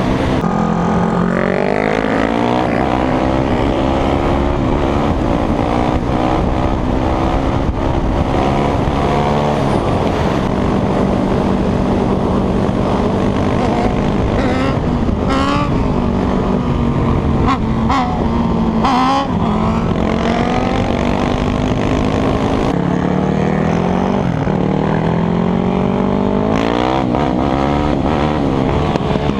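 Motorcycle engine revving up and dropping back again and again as the rider accelerates and shifts gears, over a steady rush of noise.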